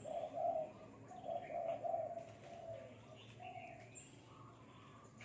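Spotted dove cooing a run of low, hooting coos, one phrase after another, fading out about three and a half seconds in. It is the phrased song that dove keepers call 'khu ang'.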